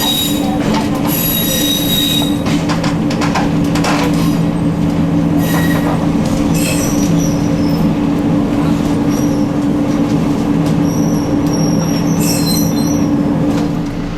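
Echizen Railway electric railcar running slowly into its terminus: the wheels squeal in the first couple of seconds and short high squeaks follow later, over a steady low running hum.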